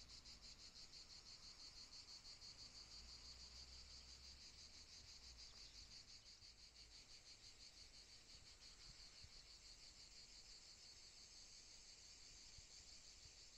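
Faint, steady, high-pitched insect chorus with a fast, even pulse, as from crickets in summer vegetation.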